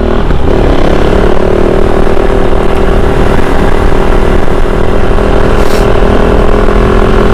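Kove 450 Rally's single-cylinder engine running while riding, its pitch rising slightly in the first second and then holding steady, over a loud rumble.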